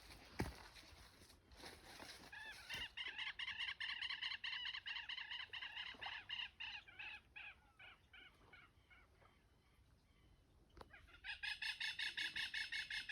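An animal calling in rapid runs of short, evenly repeated notes: one bout starting a few seconds in and fading out, then a second bout starting near the end.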